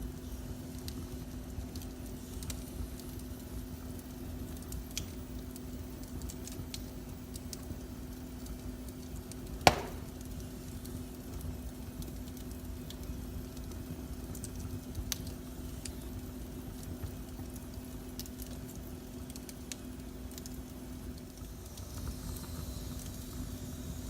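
Wood fire in a fireplace crackling, with scattered small pops and one loud, sharp pop about ten seconds in, over a steady low hum.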